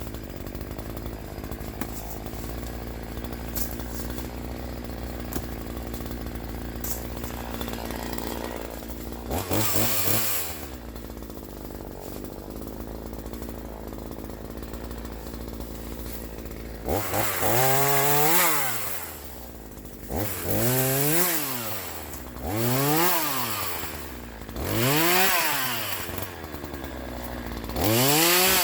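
Troy-Bilt TB4218 42cc two-stroke chainsaw idling steadily, with one quick rev about ten seconds in. From about seventeen seconds in it is revved up and let back down to idle about five times in a row.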